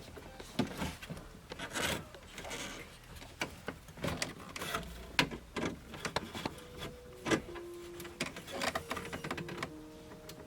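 Scattered light clicks and knocks of parts and hardware being handled and fitted by hand. A faint steady hum comes in about two-thirds of the way through and shifts pitch a few times.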